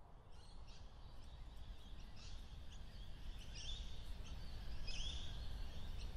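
Small birds chirping: short, high calls with quick swoops in pitch, about two a second, growing louder, over a faint, steady low background rumble.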